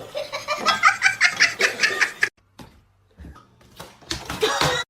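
Laughter in quick pulsing bursts that cuts off suddenly a little over two seconds in, followed by a short louder sound near the end.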